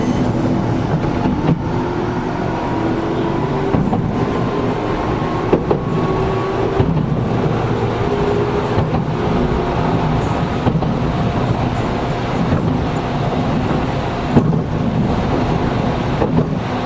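Inside a Gakunan Railway 7000-series electric railcar running at speed: a steady wheel-on-rail rumble, with rail-joint clicks every second or two and a faint motor whine that shifts gently in pitch. The car's air conditioning runs underneath.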